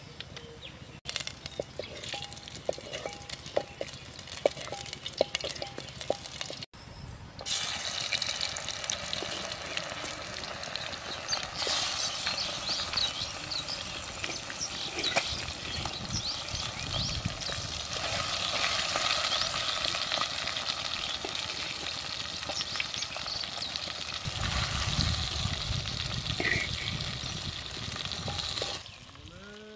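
Hot oil sizzling and crackling in a clay cooking pot. About seven seconds in it breaks off, and a louder, denser sizzle follows as paste and chicken pieces fry in the pot. Near the end a wooden spatula stirs them.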